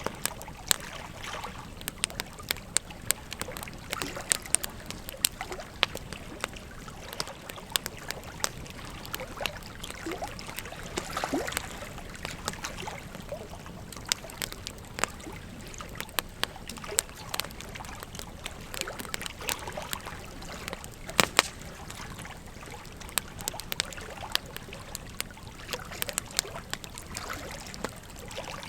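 Wood fire crackling, with frequent irregular sharp pops and snaps, over the steady rush of flowing river water. A couple of louder pops come close together about two-thirds of the way through.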